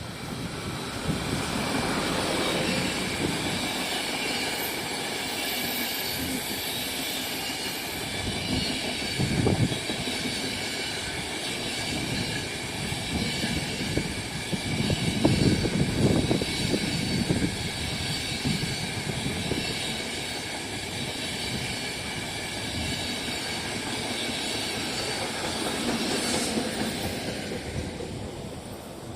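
A train passing at length, its wheels running on the rails with steady high-pitched tones over the rumble. It dies away near the end.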